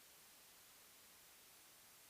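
Near silence: a very faint, steady white-noise hiss, strongest in the high end, with no other sounds.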